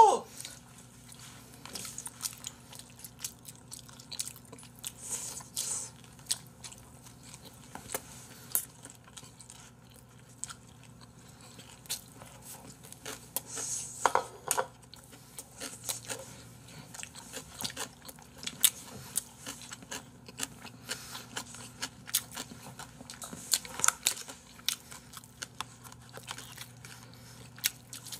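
Close-miked eating of braised pig's trotters (jokbal): chewing and biting, with scattered clicks and taps of chopsticks against plastic containers. A steady low hum runs underneath.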